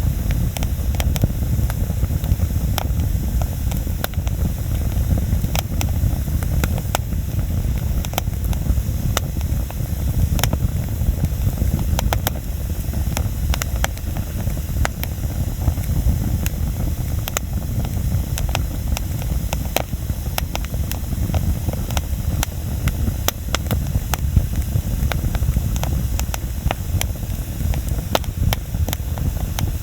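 Outdoor wood bonfire burning, with frequent irregular crackles and pops from the burning wood over a steady low rumble.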